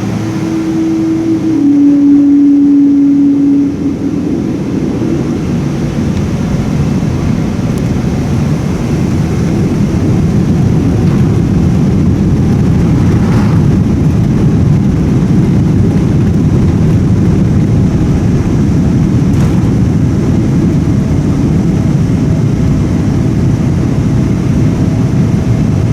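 Boeing 777-200ER heard from inside the cabin during its takeoff roll. A steady hum drops slightly in pitch in the first few seconds, then gives way to a loud, steady low rumble of the engines at takeoff power and the wheels on the runway.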